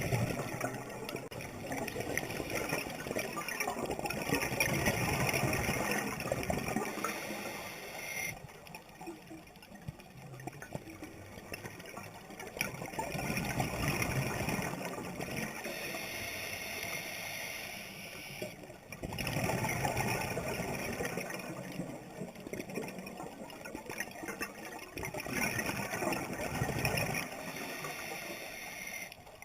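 Water sloshing and gurgling, swelling and easing over stretches of several seconds.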